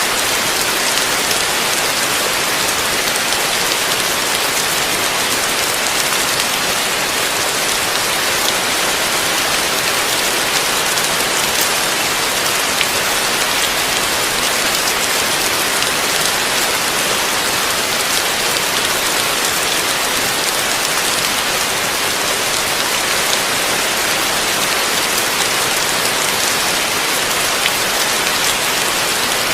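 Heavy rain falling steadily, an even dense hiss of drops on a surface with no let-up.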